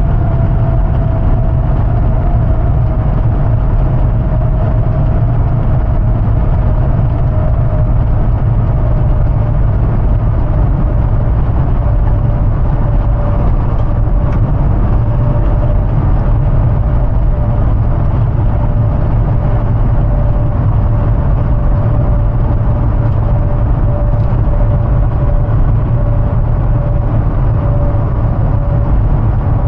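2005 Hummer H2's 6.0L Vortec V8 driving at a steady pace: a constant low engine and road drone, with a thin whine that slowly falls in pitch as the speed eases off.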